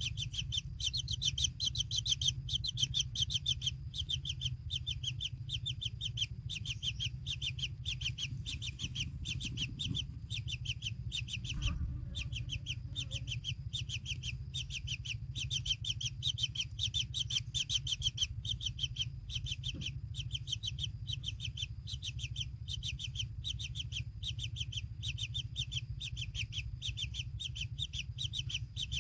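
Kingfisher nestlings calling: a fast, even series of short, high chirps, about four or five a second, with a brief break about twelve seconds in. A low steady rumble runs underneath.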